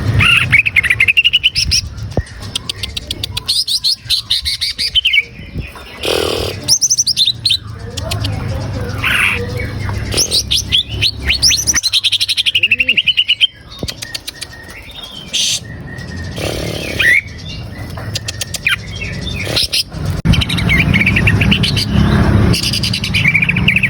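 Green leafbird (cucak ijo) song: a rapid, varied run of whistled phrases, quick sliding notes and chattering trills, with fast clicking notes among them, over a low hum. It is a lure song for setting a kept cucak ijo singing.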